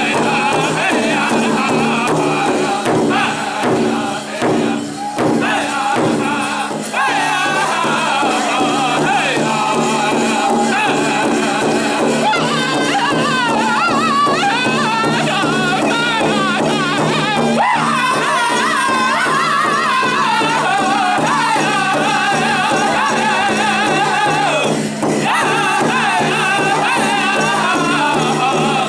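Powwow drum group singing in high-pitched unison over a large shared hand drum beaten in a steady rhythm.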